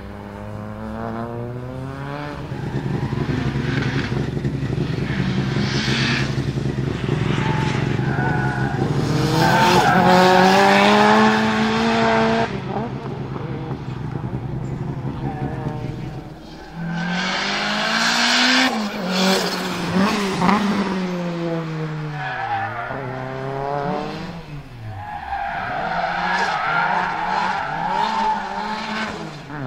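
Tuned Lancia Delta Integrale Evo 2's turbocharged 2.0-litre four-cylinder engine revving hard, its pitch climbing for about twelve seconds before the throttle is cut. Then the revs rise and fall several times as the car slides, with tyre squeal.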